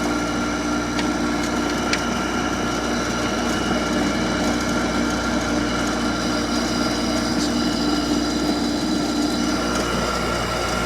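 A 2004 Hampton Bay 8,000 BTU window air conditioner, built by LG, running: a steady hum with several whining tones over the rush of its fan.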